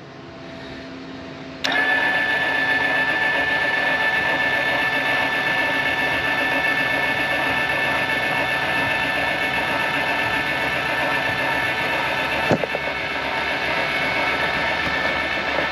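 RAM 3500 lb electric A-frame trailer jack's motor and gearbox running steadily with a high whine, switched on about a second and a half in. A sharp click sounds near the end while it keeps running.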